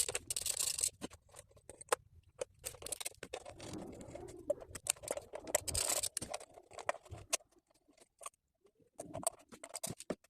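Hands working on top of a Mercedes M111 four-cylinder engine: irregular clicks, light rattles and scraping as parts are handled and the ignition coils are unclipped and moved aside to reach the spark plugs. The handling is busiest for the first seven seconds, then thins to a few scattered clicks.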